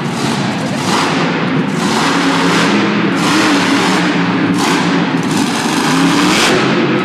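Monster truck engine revving hard in repeated surges, its pitch rising and falling with each blip of the throttle.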